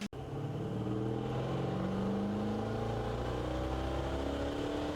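A steady machine hum whose pitch rises slowly, starting suddenly just after an abrupt cut.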